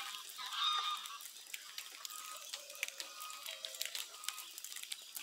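Faint outdoor ambience: distant bird calls, with scattered small clicks.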